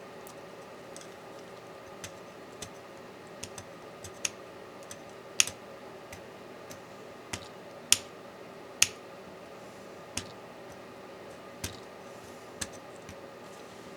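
Irregular sharp clicks and taps of small tools and laptop parts being handled during a MacBook Pro teardown, about a dozen in all, the loudest a little past five seconds and around eight and nine seconds in, over a faint steady hum.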